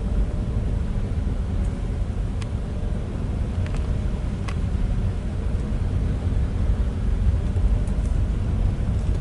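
A car running with a steady low rumble, a few faint ticks over it.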